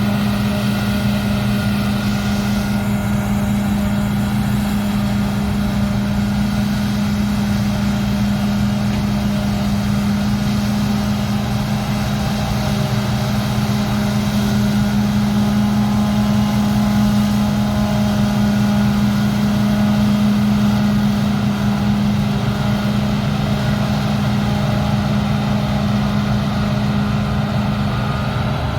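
Combine harvester's diesel engine running steadily under working load, a constant deep drone with no pauses.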